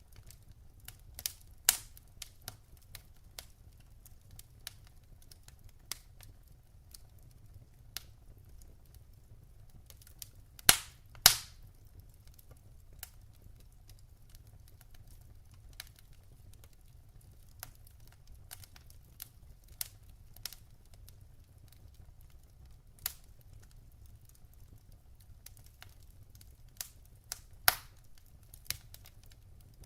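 Wood fire crackling in a fireplace: irregular sharp pops and snaps of burning logs over a faint low rumble. Two loud pops come in quick succession about eleven seconds in, and another small cluster comes near the end.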